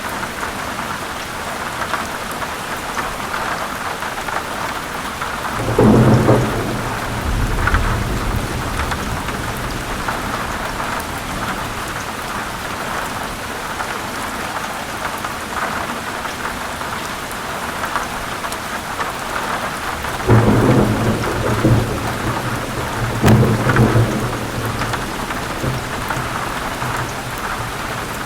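Heavy, steady rain with a constant hiss, and thunder rumbling twice: a low roll about six seconds in, and a longer one with two swells from about twenty seconds in.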